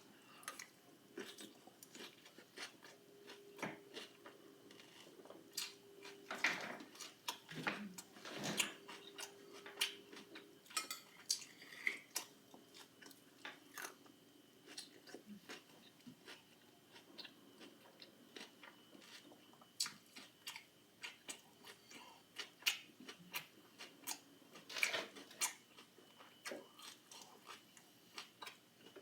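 A person chewing crunchy food close to the microphone: scattered small crunches and clicks, irregular and fairly faint.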